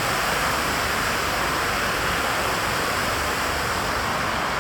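Water rushing steadily, an even hiss that holds a constant level throughout.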